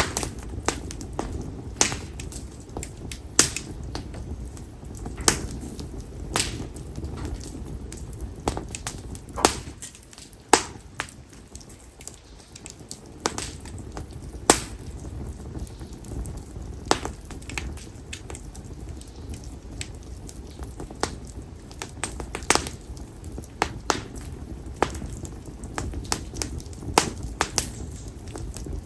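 Split konara oak firewood burning in an open fire, crackling with irregular sharp pops over the low, steady rush of the flames.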